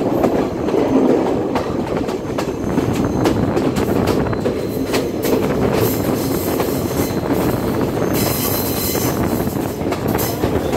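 Passenger train carriages running on the rails, heard from an open carriage window: a steady rumble of wheels with a quick run of rail-joint clicks. A brief high squeal of the wheels comes about eight seconds in, as the train rounds a curve.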